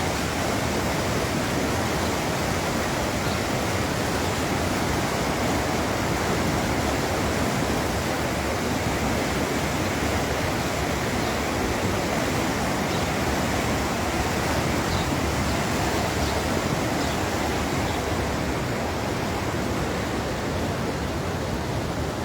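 Fast-flowing floodwater rushing steadily, an even, unbroken roar of water.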